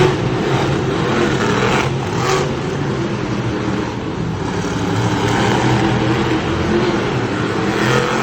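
Monster truck engine running and revving, loud and sustained.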